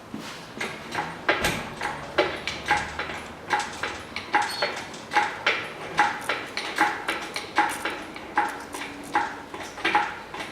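Engine hoist being worked to lift an engine out of the bay: a steady run of short metallic clinks and knocks, about two to three a second.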